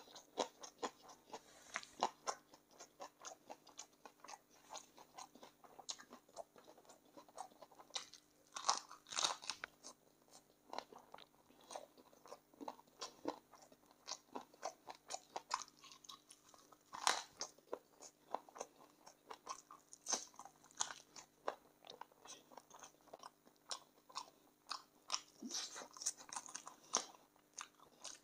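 A person chewing and crunching on chicken feet in gravy: a steady run of irregular wet chews and crisp crunches, the loudest about 9 and 17 seconds in.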